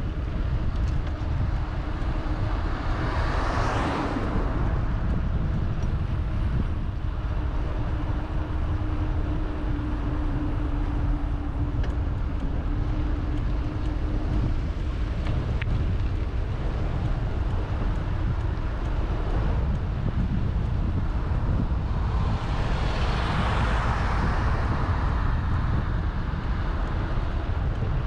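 Steady wind rumble on the microphone of a moving bicycle, with a low steady hum through the first half. Vehicles pass twice: one briefly about four seconds in, and a longer swell and fade a little past twenty seconds.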